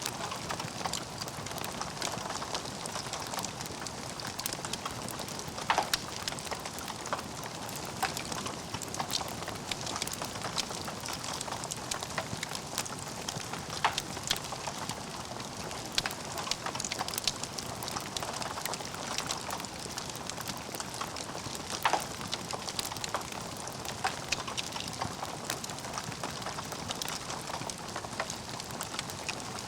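Burning logs in a fireplace crackling, with a steady hiss and frequent sharp pops, the loudest about six, fourteen and twenty-two seconds in.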